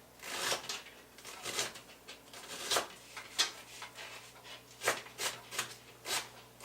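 Knife dicing an onion on a cutting board: about a dozen short, irregular cutting strokes. The cook finds the knife not very sharp.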